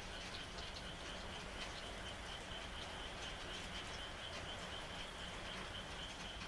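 Night ambience of rain with a frog chorus: a steady high-pitched trill runs throughout, over a hiss of rain with scattered raindrop ticks.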